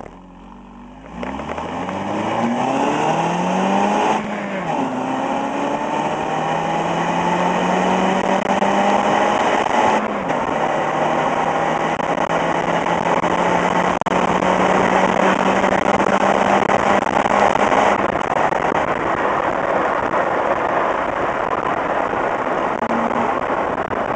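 Exhaust of a Toyota Echo's 1.5-litre four-cylinder through its stock, 412,700-mile muffler, heard at the tailpipe: from idle the car pulls away at wide-open throttle, the pitch climbing steeply in first, a shift about four seconds in, a longer climb in second, another shift about ten seconds in, and a slower climb in third. After about eighteen seconds the pull ends and it runs on with steady road and wind noise.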